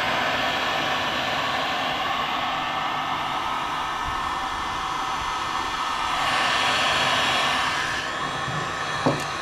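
Electric heat gun blowing steadily, with a faint motor whine, heating the engine crankcase so it can be split. A short knock near the end.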